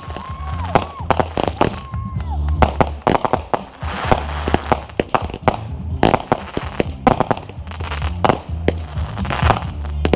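Fireworks going off in rapid succession, many sharp bangs and crackles, over loud music with a steady beat.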